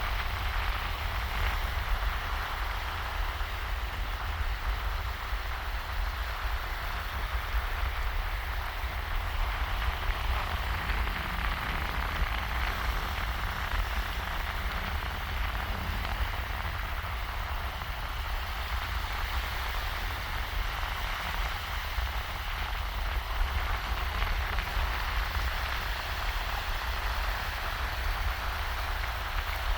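Shallow waves washing on a sandy beach: a steady, even hiss of moving water, with a low rumble underneath from the breeze on the microphone.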